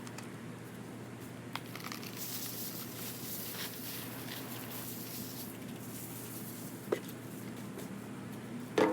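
A bag of leaves being handled and emptied: crinkling of the bag and rustling of dry leaves as they are shaken out, with a few short sharp knocks, the loudest at the very end.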